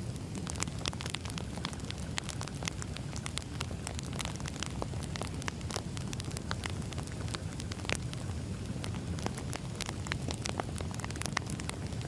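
Firewood burning in a fire, with many irregular sharp crackles and pops over a steady low rumble of the flames.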